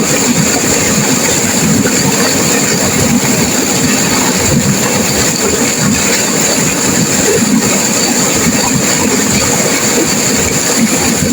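Turbulent river water rushing and crashing, a loud, steady noise.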